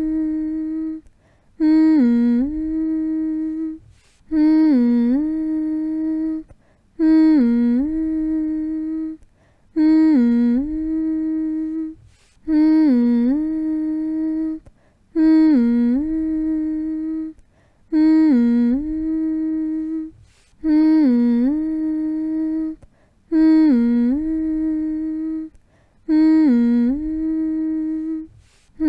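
A person humming the same short phrase over and over. Each hum dips briefly in pitch, then holds one steady note for about two seconds before a short pause, repeating about every two and a half seconds.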